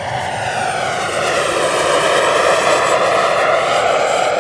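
A radio-control model jet's JetCat turbine engine runs with a steady jet roar and a thin high whistle as the aircraft makes a low, slow pass. The roar grows louder over the first two seconds and stays strong as the jet goes by close.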